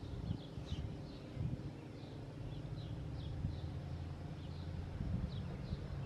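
Small birds chirping in short, quick falling notes, repeated several times a second, over a steady low outdoor rumble.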